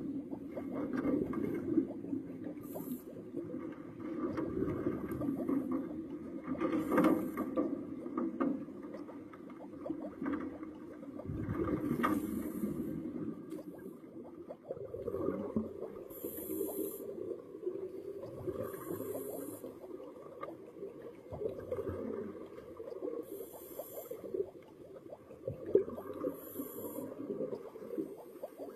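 Scuba diver breathing underwater through a regulator: a hiss on each inhalation every few seconds, with a bubbling rumble of exhaled air between.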